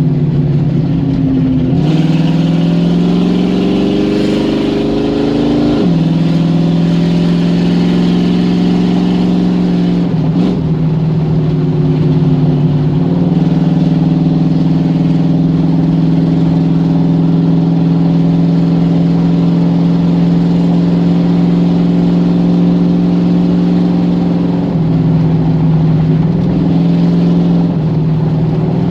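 Car engine and exhaust running under load. Its pitch climbs for a few seconds, drops back suddenly, then holds steady, with brief small dips near the end.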